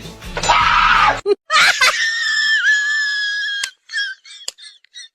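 A short hissing burst, then a long, high, steady scream of about two seconds that cuts off abruptly, followed by several short squeaky cries near the end.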